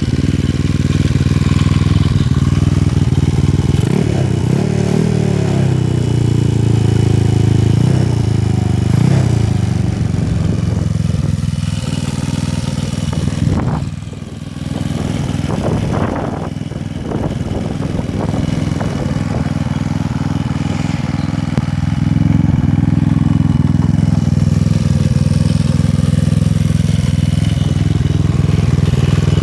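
Honda Ruckus scooter's 232cc Taida big-bore GY6 engine running through a Yoshimura exhaust. It is revved and falls back twice in the first ten seconds, dips briefly about halfway through, then runs steadily.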